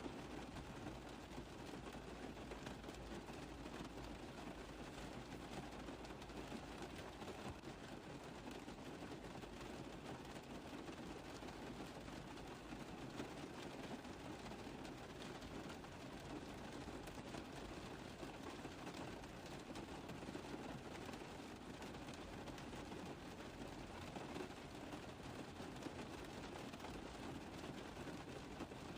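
Rain pattering steadily on a car roof: a dense, even patter of many small drop impacts that holds at the same level throughout.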